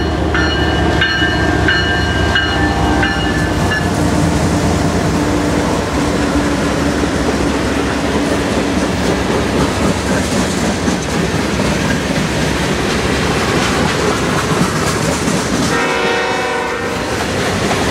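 CN freight train passing close by. The lead GE ES44DC locomotive's horn sounds in several short blasts over the running diesels and stops about three and a half seconds in. The freight cars then roll past with a steady rumble and the clickety-clack of wheels over the rail joints.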